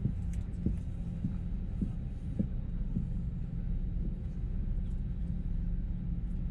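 Airbus A321neo cabin with a steady low engine hum and rumble. Soft thumps come about every half second through the first half, then fade out.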